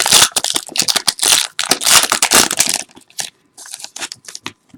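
Trading card packaging being torn open and crinkled by hand, a dense run of crackling rips for about three seconds, then only a few light rustles and clicks.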